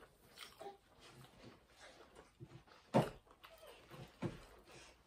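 Mouth sounds of someone eating pizza: soft smacks and small clicks of chewing, with a sharper click about three seconds in.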